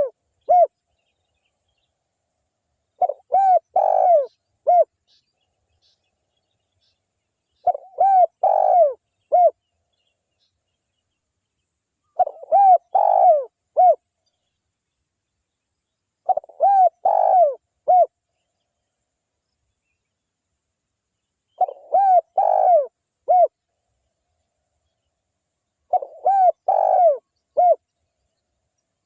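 Spotted dove cooing: a phrase of four or five low, arched coos, the last one set slightly apart, repeated about every four and a half seconds with silence between. This is the male's advertising call.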